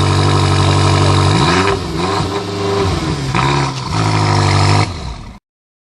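BMW M5 engine running through its exhaust, held at a steady speed and then revved, the pitch rising and falling about a second and a half in and again around three and a half seconds in. The sound cuts off suddenly near the end.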